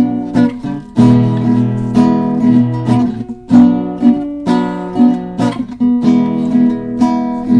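Acoustic guitar strummed in a steady rhythm of chords, an instrumental break between verses of a slow blues song.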